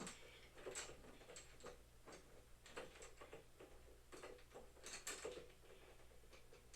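Faint, irregular clicks and light taps, about two or three a second, from parts of boxing equipment being handled and fitted together.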